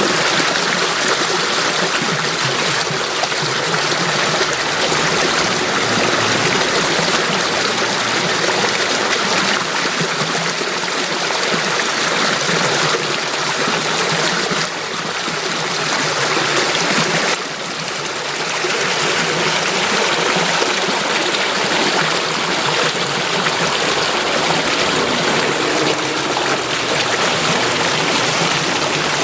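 Water flowing in a stream, a steady, even rush and babble, briefly dipping in level about fifteen seconds in.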